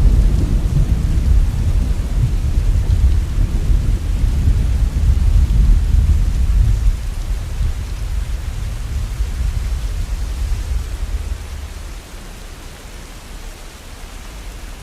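Long roll of thunder rumbling deep under steady falling rain; the rumble dies away by about twelve seconds in, leaving the rain.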